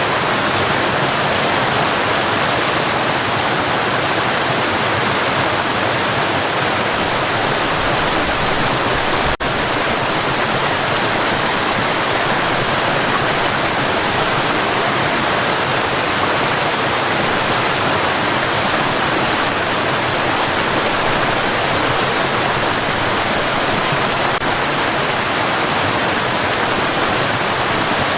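Steady white noise: an even, loud hiss spread across the whole range, with a momentary dropout about nine seconds in.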